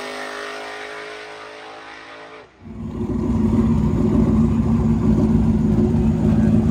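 A drag car's engine at speed, pitch steady, fading steadily into the distance down the track. About two and a half seconds in, the sound cuts to a loud, steady engine running close by, from a blue Ford Mustang in the staging lanes.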